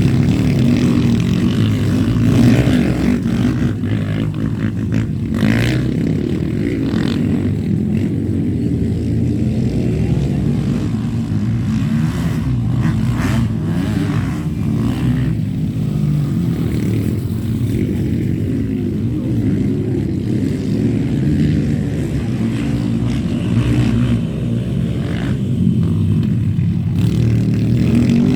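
Motocross motorcycle engines running, loud and steady.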